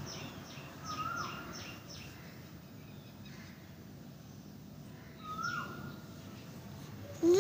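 Birds calling faintly: a short call about a second in and another about five seconds in, with light, quick chirps scattered between them.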